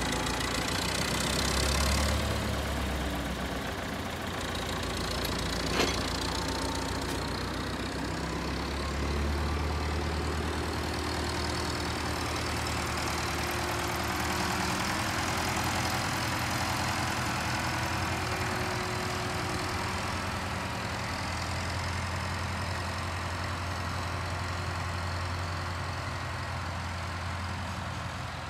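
An engine runs steadily for the whole stretch, its pitch and load shifting now and then, with a single sharp knock about six seconds in.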